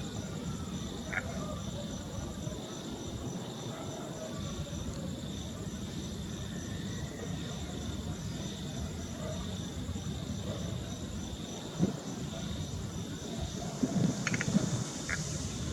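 Steady high chirring of insects such as crickets, with low rustling and a sharp knock, then a brief clatter near the end.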